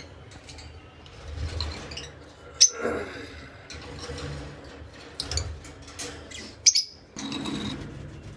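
Pet cage birds chirping: a few short, sharp calls scattered through, the loudest about two and a half seconds in and again near the end.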